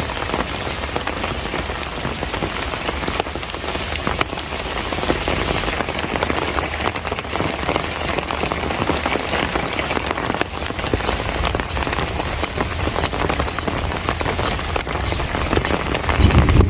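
Steady heavy monsoon rain falling on surfaces, a dense patter of many drops. A low swell near the end.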